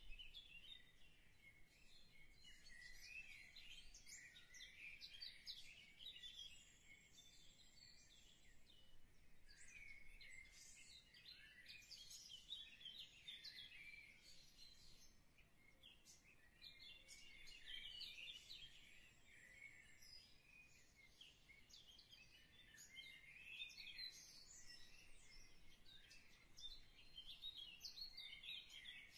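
Faint birdsong: small birds chirping and twittering in short high clusters with brief pauses.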